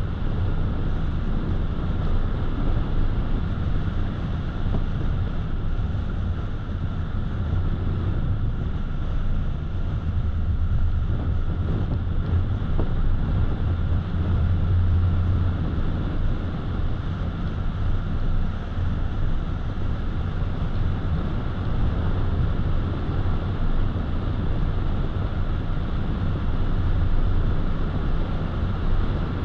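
Car driving at road speed: a steady low rumble of tyres and engine.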